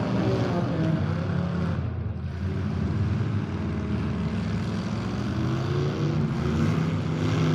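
Engines of several modified demolition derby cars running together, revving up and down in a steady mixed drone. It eases briefly about two seconds in.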